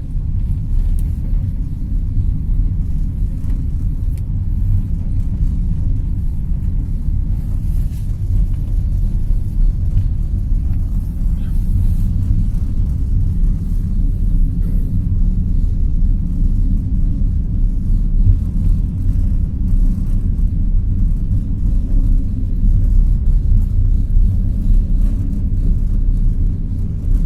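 Passenger train running along the track, heard from inside the carriage: a steady low rumble of the wheels on the rails with a few faint ticks.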